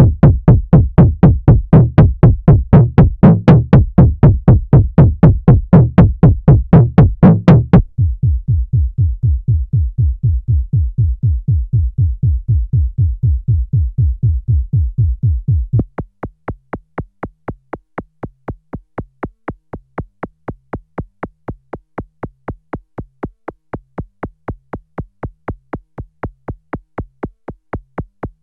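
Roland SE-02 monophonic analog synthesizer playing a fast, evenly repeating sequenced note pattern through three factory presets. First comes a loud, bright patch. About eight seconds in it changes to a duller, darker bass patch, and about sixteen seconds in to a thinner, quieter tone.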